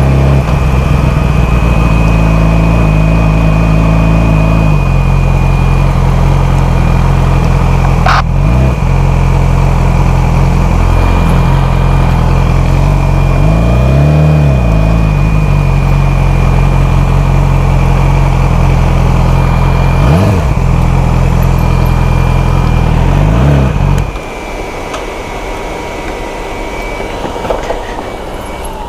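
Motorcycle engine idling, its revs briefly rising and falling four times, then the engine cuts off suddenly about three-quarters of the way through, leaving a quieter background.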